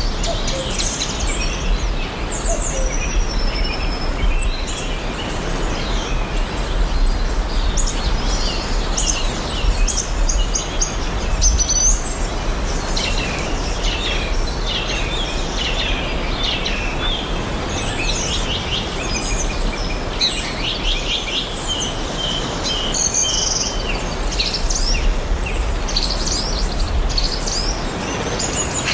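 Several songbirds chirping and trilling throughout, over a steady, even background hiss with a low rumble beneath.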